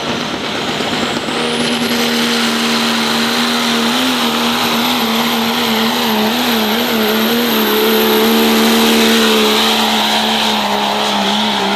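Pickup truck engine held at full throttle while pulling the sled. Its pitch steps up a second in, wavers up and down through the middle of the pull, holds, then drops near the end as the throttle comes off. A high whistle rises over the first couple of seconds and then holds.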